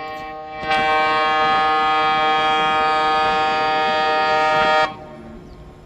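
Ship's horn sounding one long, steady blast of about four seconds that cuts off sharply.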